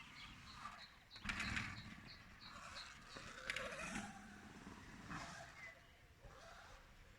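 A bird repeating short high notes, about three a second, over the intermittent clatter and creak of a Sur-Ron electric motorbike being ridden, loudest about a second in and again around three and a half seconds.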